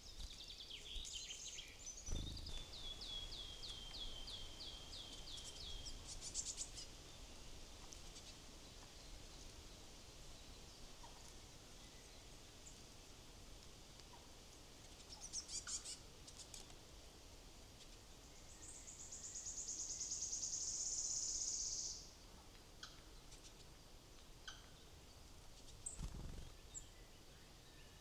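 Wild woodland songbirds calling faintly. About two seconds in comes a run of quick, evenly repeated falling notes lasting some four seconds, followed by scattered short chirps and, later, a high buzzing trill of about three seconds. A low thump sounds twice, near the start and near the end.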